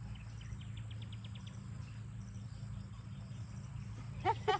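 Outdoor ambience with a steady low hum. About half a second in comes a quick run of about eight high insect chirps. A brief, louder pitched sound comes near the end.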